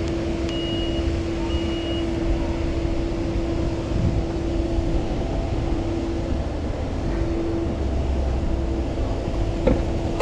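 Ferrari F8's twin-turbo V8, fitted with a Novitec exhaust, running steadily at low revs with an even drone. Two short high beeps come in the first two seconds, and a brief click comes near the end.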